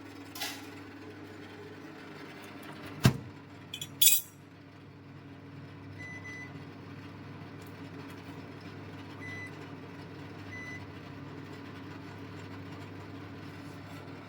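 Steady low hum with kitchenware being handled: a light clink, a sharp knock about three seconds in, then a brief clinking rattle of metal or glass about a second later.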